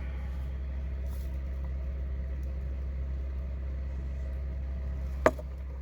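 Van's heater running with a steady low rumble. A single sharp click about five seconds in.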